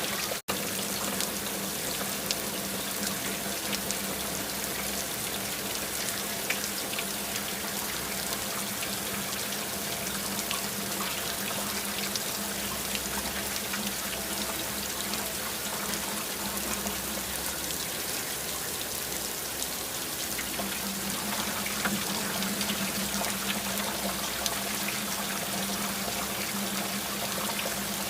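Steady rain, a dense hiss of falling water with many separate drop ticks, cutting out for an instant about half a second in.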